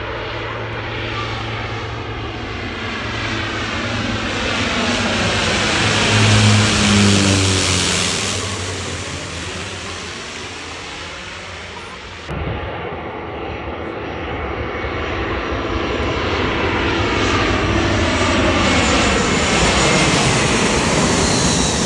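Jet airliner passing low overhead: engine roar swells to a peak with a falling tone and then fades. After an abrupt cut about halfway through, a second airliner's engine roar builds up loudly toward the end.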